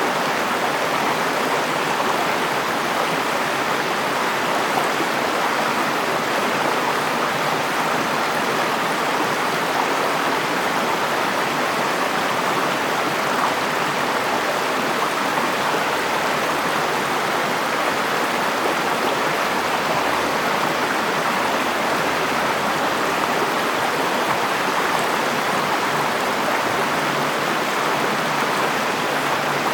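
River water flowing over rocks, a steady rushing babble.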